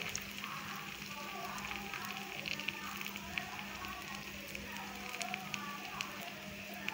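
Dosa sizzling on a hot tawa, a steady hiss full of small irregular crackles, while a spoon spreads red chilli chutney across it.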